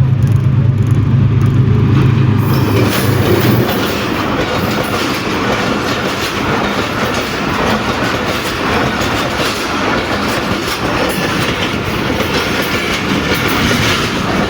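A passenger train passing close by. The GEU-20 diesel-electric locomotive's engine drone drops away about three seconds in, then the coaches roll past with a steady rumble and the clickety-clack of wheels over rail joints.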